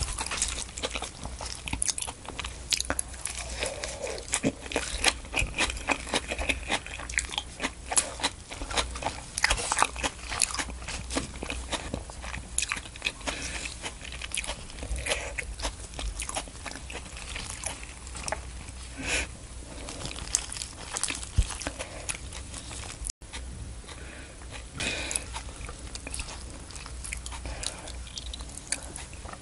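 Close-miked eating of raw salmon wrapped in fresh salad greens with a cream sauce: biting and chewing, with many irregular crisp crunches from the leaves.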